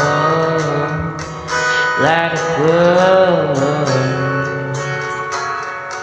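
A song playing: a long, wordless sung note that bends in pitch about two seconds in, over a guitar accompaniment.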